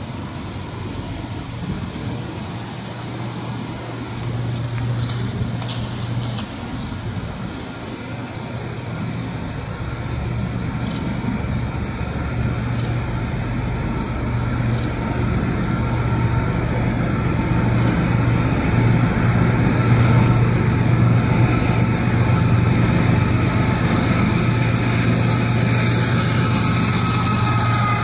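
Norfolk Southern intermodal freight train approaching: the diesel locomotives' low, steady engine drone grows gradually louder as the train nears, with the rumble of wheels on rail coming in near the end.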